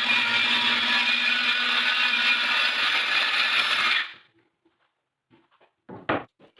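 Electric power tool motor running steadily, then cut off suddenly about four seconds in, followed by a few light clicks and knocks.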